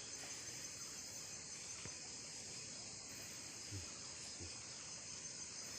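Steady high-pitched chorus of forest insects droning without a break, with a couple of soft low thumps a little after the middle.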